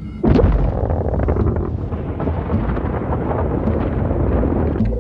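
A sudden loud blast about a quarter second in that carries on as a steady deep rumble.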